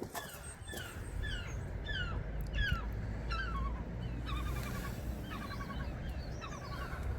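Songbird singing: a run of short, falling whistled notes about two a second, then rapid trilled phrases in the second half, over a low steady rumble.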